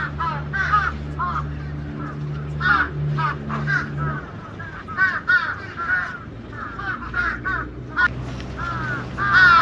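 Birds calling over and over in short, arching calls, several close together at times. A steady low hum runs underneath and weakens about four seconds in.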